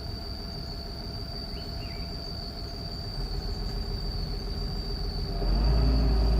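Excavator diesel engine running with a steady low rumble that builds and gets clearly louder about five seconds in, as the machine works or comes closer.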